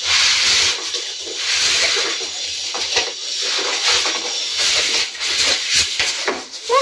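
Rustling and crinkling of a sewing machine dust cover being handled and unfolded, swelling and fading irregularly, with a few light clicks near the end.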